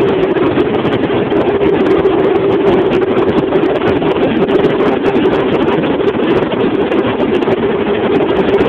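Opel Corsa 1.4 four-cylinder petrol engine running steadily at an even speed, freshly rebuilt and on its first start after a full piece-by-piece teardown.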